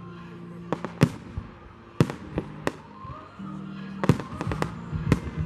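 Fireworks exploding in a display: a string of sharp bangs with echoing tails, some spaced about a second apart and some in quick clusters, with music playing underneath.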